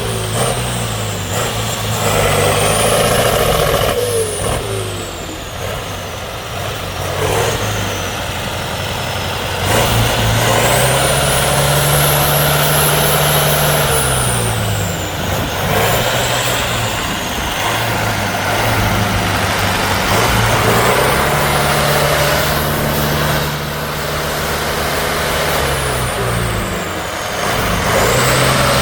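Heavy off-road trial truck's diesel engine, revved up and down in long swells under load, with a high whine that rises and falls with the revs.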